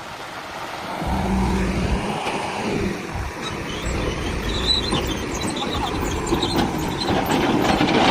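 A motor vehicle's engine running, with a low hum and scattered clatter.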